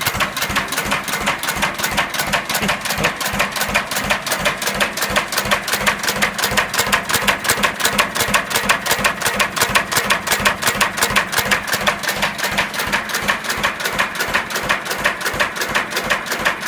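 1926 International Harvester Model M 6 hp single-cylinder hit-and-miss engine running with an even, rapid mechanical clatter.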